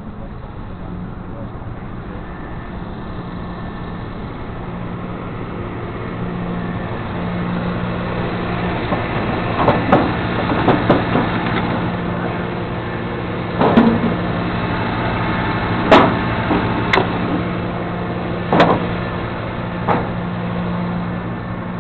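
Flatbed tow truck's engine running steadily and getting a little louder after a few seconds. About halfway in, a series of about seven sharp metal knocks and clanks begins.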